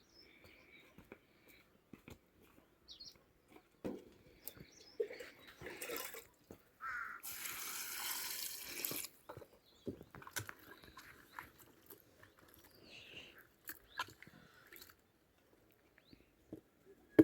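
Water splashing for about two seconds near the middle, among scattered knocks and a few faint bird chirps.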